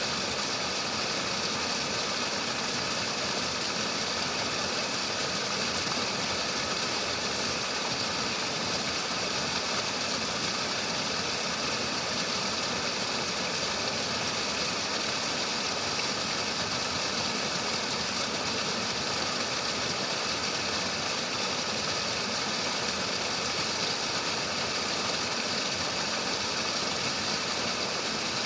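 Flowing water, a steady unbroken rushing with most of its energy in the hiss range and no change in level.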